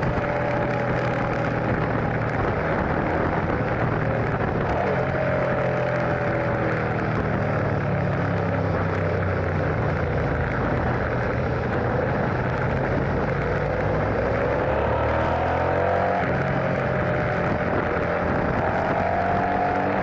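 Motorcycle engine running under way with wind rushing over the microphone; the engine pitch rises and falls with the throttle, shifting down and back up about fifteen seconds in.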